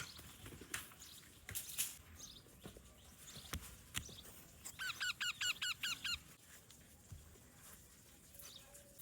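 Parrot giving a quick run of about eight harsh squawks, each bending in pitch, lasting about a second and a half about five seconds in. Scattered faint clicks and knocks come before it.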